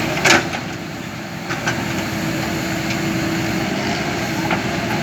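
Heavy diesel machinery running steadily at a work site, with a loud sharp clank about a third of a second in and a couple of fainter knocks later.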